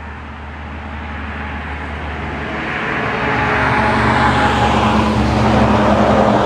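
Car engine and road noise, growing steadily louder over several seconds.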